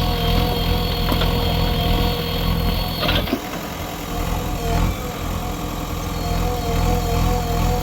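Diesel engine of heavy earthmoving machinery running steadily, with a thin high whine over it. About three seconds in the whine cuts off with a sharp click and the engine sound dips briefly, then runs on.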